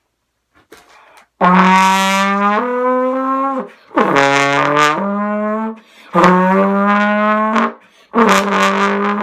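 Trombone played to imitate a race car: four long, loud blasts about 1.5 to 2 seconds each, the pitch shifting up and down within and between them.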